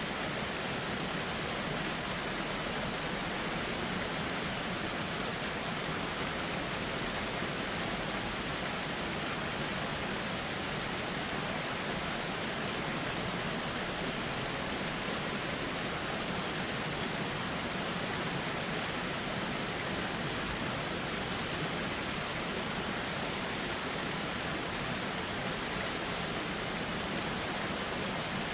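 A river flowing: a steady, even rush of water that does not change.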